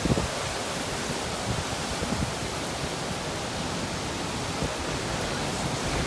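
Hurricane-force wind from Hurricane Idalia's eyewall: a steady, even rush of noise, with small low thumps of gusts buffeting the microphone.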